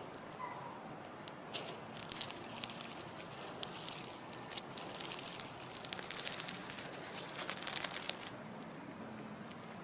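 Hands squeezing and kneading slime, making a run of fine crackles and pops. It starts about a second in and stops shortly before the end.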